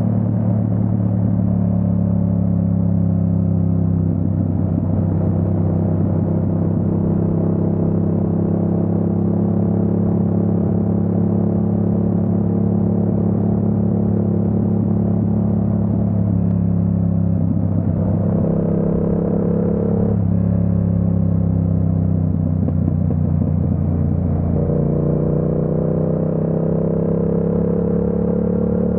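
Yamaha MT-07's parallel-twin engine running steadily while riding, its note stepping to a new pitch about four seconds in, twice more around the middle, and again a few seconds before the end.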